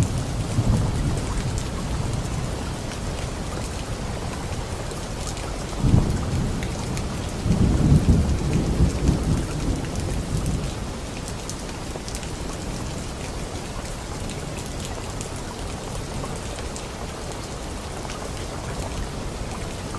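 Steady rain falling, with thunder rumbling low at the start, a sharp crack about six seconds in and a longer rolling rumble a couple of seconds later, then rain alone.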